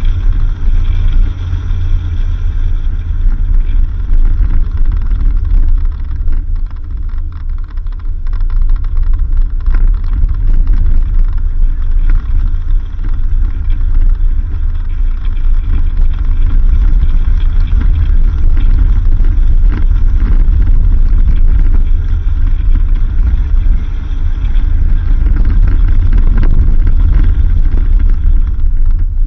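Vehicle driving along a dirt road: a loud, steady low rumble of engine and tyres, rising and falling a little in level.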